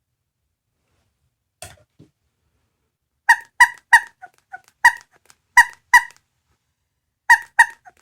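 Small electronic capsule-toy sound gadget playing a recorded dog barking: a faint click, then short, high yaps in groups of two or three.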